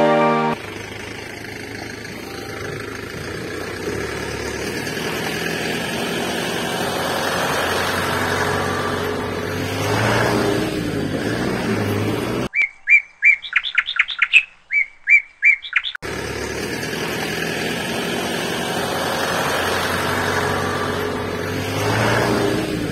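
An engine running steadily, swelling briefly twice. In the middle it drops out for about three seconds of bird chirps, a quick series of short high calls.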